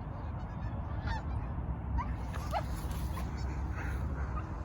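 A flock of geese honking at a distance: scattered short calls that come thicker from about two seconds in, over a steady low rumble.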